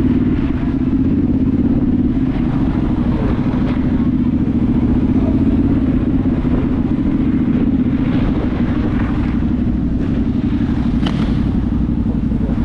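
Dirt bike engine idling steadily at an even pitch.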